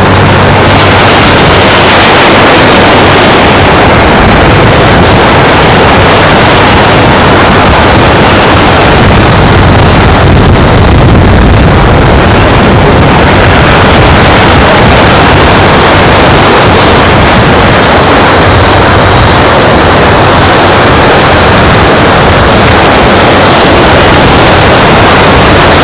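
Strong wind blowing on the microphone, a loud, steady rushing noise, mixed with waves on the beach.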